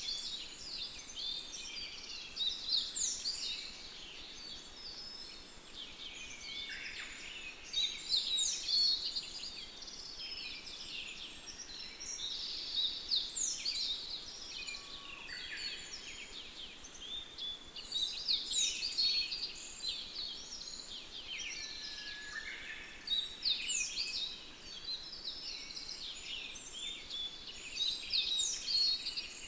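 Small songbirds chirping and twittering, many short overlapping calls at once, swelling into louder bursts every few seconds over a faint steady hiss.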